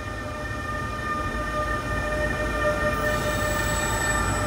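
Freight train headed by two electric locomotives, an E483 and an E494, passing at close range. Wheels rumble on the rails under a steady electric whine, getting louder as the locomotives go by. A thin high tone joins about three seconds in.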